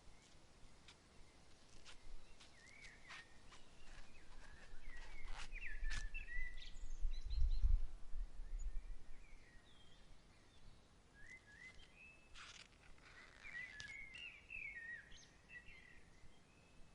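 Small birds chirping and twittering in short calls, in two spells. In the middle a low rumble of breeze swells and fades.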